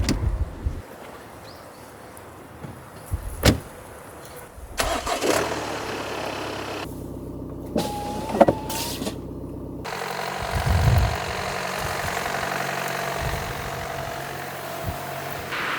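A motor running steadily, joined by a few sharp knocks over a series of short cuts.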